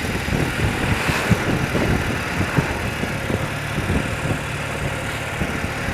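Engine of an old BMW motorcycle running steadily, with a low hum and some irregular low rumble.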